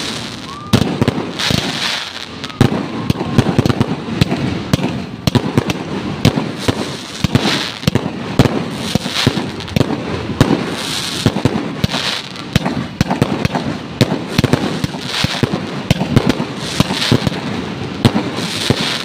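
Fireworks going off: a dense, irregular string of sharp bangs, with crackling bursts every second or two.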